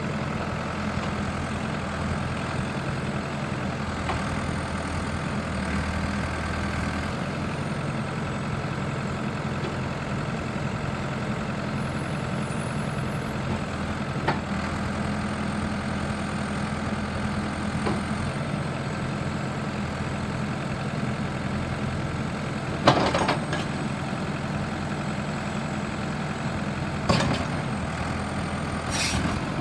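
New Holland LB110 backhoe loader's diesel engine idling steadily. A few sharp knocks cut through it, the loudest about 23 seconds in and two more near the end.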